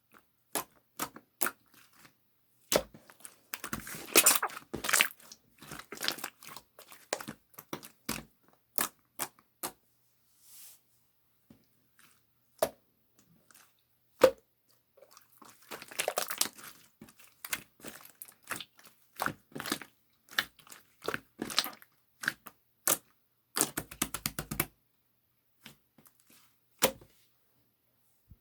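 Slime being squeezed, poked and stretched by hand, giving sharp sticky clicks and pops with bursts of dense crackling, broken by short pauses.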